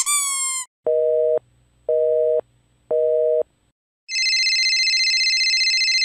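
A squeaky toy squeaks briefly at the start. Then come three telephone busy-signal beeps, about a second apart, and a high electronic phone ring that trills for about two seconds.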